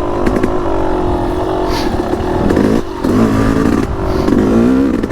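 Yamaha YZ250X 250cc single-cylinder two-stroke dirt bike engine revving up and down several times as it is ridden along a trail.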